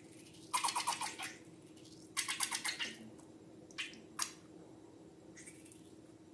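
Slime being squeezed and worked by hand: two short bursts of rapid wet crackling, then two sharp clicks and a faint squelch, over a steady low hum.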